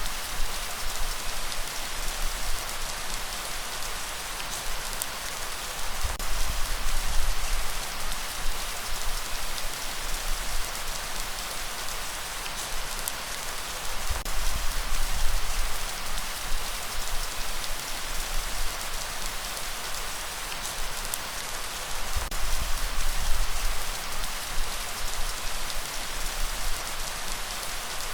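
Light rain falling steadily as an even hiss, with a low rumble from a gentle breeze that swells and fades every several seconds.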